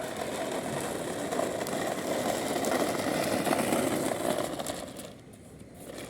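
A small motor vehicle running with a rattly, buzzing sound that grows louder and then fades out about five seconds in.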